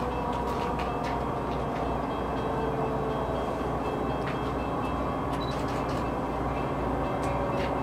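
Diesel train approaching at a distance: a steady low rumble of locomotive and wheels on rail, with scattered faint clicks.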